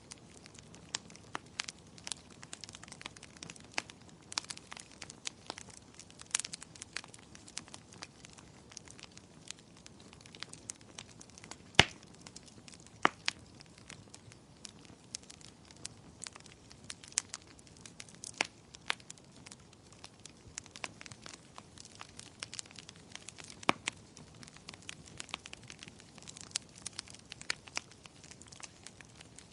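Wood fire in a fireplace crackling, with irregular sharp pops over a soft low hiss; the loudest pop comes about twelve seconds in.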